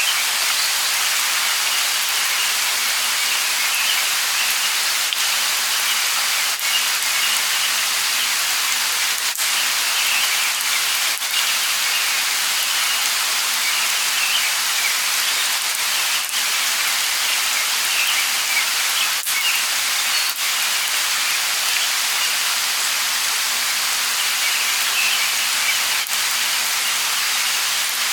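Light rain falling steadily, an even hiss with scattered sharper drop ticks now and then.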